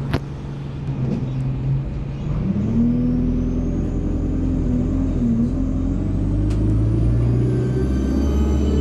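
Alexander Dennis Enviro200 single-decker bus pulling away, its diesel engine revving up with a high turbocharger whine that climbs slowly in pitch. The engine note dips briefly about halfway as the Allison automatic gearbox changes up, and a sharp click sounds at the very start.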